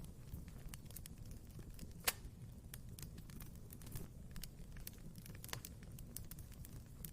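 Wood fire crackling in a fireplace: irregular small pops and snaps over a low steady rumble, with one sharper pop about two seconds in.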